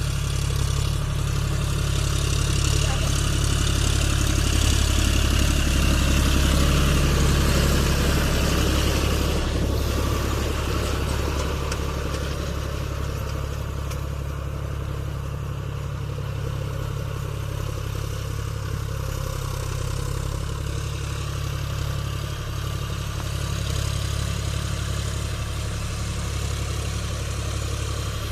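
John Deere 5050D tractor's three-cylinder diesel engine running steadily at work. It swells a little a few seconds in, then eases back after about nine seconds.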